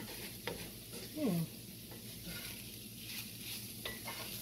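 Chopped okra sizzling in a hot gumbo roux while it is stirred, with a few sharp clicks of the spoon scraping and tapping the pot. A brief falling hum from a voice about a second in.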